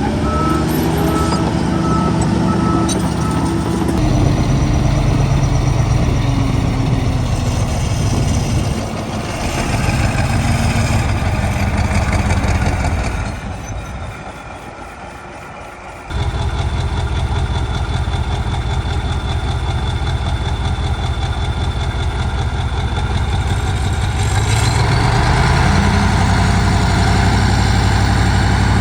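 Heavy diesel engines of a bulldozer and dump trucks working, with a reversing alarm beeping in the first few seconds. The sound drops away for a few seconds around the middle and comes back suddenly, and an engine revs up about twenty-five seconds in.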